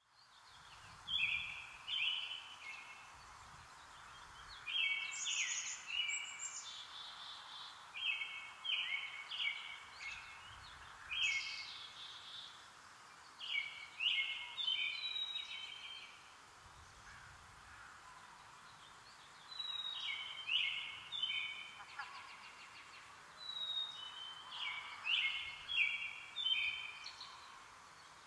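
A songbird singing, repeating short phrases of quick high chirping notes every two to three seconds over a steady background hiss.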